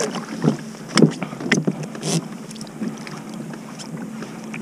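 Knocks and splashes on a kayak while a crab trotline is worked over the side and crabs are dipped into the basket. There are several sharp hits about half a second apart in the first two seconds, then quieter water noise.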